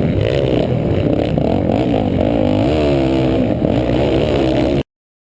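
Several motocross motorcycle engines revving at once, their pitches rising and falling as the riders open the throttle and shift. The sound cuts off abruptly near the end.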